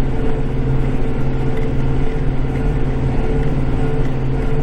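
Kubota tractor's diesel engine running steadily, heard from inside the cab while it plows heavy, damp snow.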